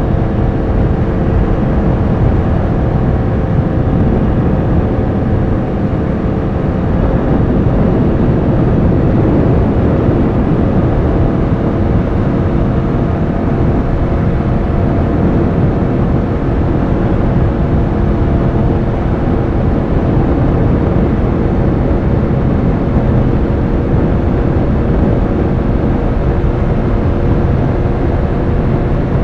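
Yamaha R1 sportbike's inline-four engine running at a steady cruise, its hum holding nearly constant pitch, under a heavy low rushing noise.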